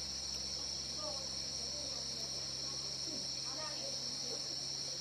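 Crickets chirring in a steady, high-pitched chorus over a low steady hum.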